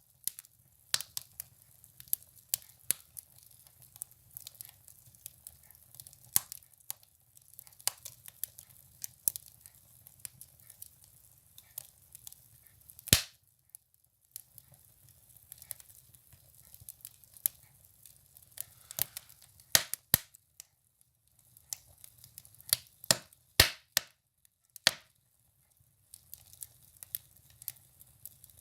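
Firewood burning in a wood stove: irregular sharp crackles and pops over a faint low rumble of the fire, with a few louder snaps, the loudest about halfway through.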